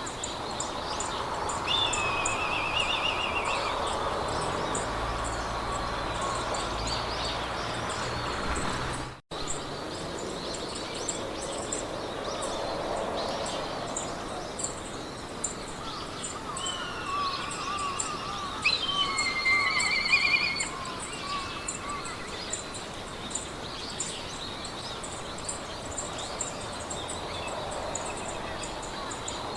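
Meadow ambience: wind blowing through grass as a steady hiss, with birds singing short warbling trills a couple of seconds in and again in a cluster about two-thirds through, over a fast, steady high ticking. The sound cuts out for an instant about a third of the way in.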